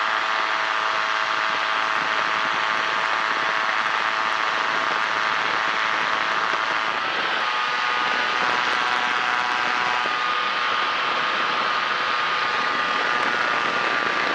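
Kolb Firefly ultralight airplane's engine and propeller droning steadily in low cruise flight, with wind rush over the open cockpit. The engine note shifts slightly about halfway through.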